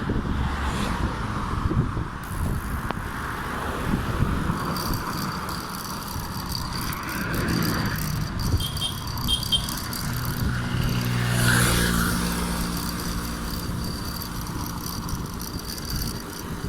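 Wind rushing over the microphone of a bicycle in motion on the road. A motor vehicle's engine passes, growing louder to a peak about twelve seconds in and then fading.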